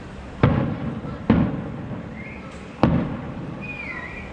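Aerial firework shells bursting: three sharp bangs within about two and a half seconds, each trailing off in a rolling echo.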